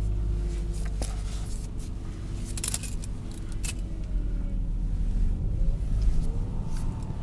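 Subaru Liberty's boxer engine at fast idle on a cold start, the throttle untouched, its pitch wandering up and down on its own: the unsteady idle the owner calls strange fluctuations. A few light clicks and jingles sound over it.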